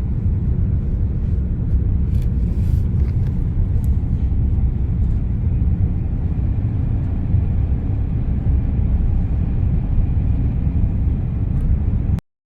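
Steady low rumble of road and engine noise inside a moving car's cabin, cutting off abruptly near the end.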